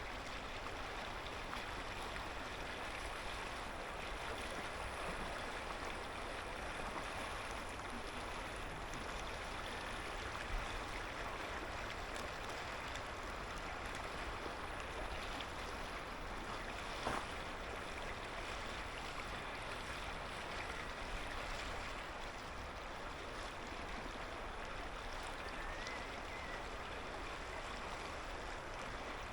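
Clear mountain river flowing, a steady rushing babble of water over stones. Two brief clicks break through, a third and a bit over halfway through.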